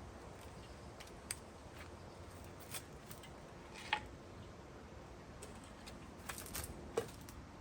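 A few scattered light clicks and one brief metallic clink of hand tools and pump parts being handled while a pool pump is taken apart.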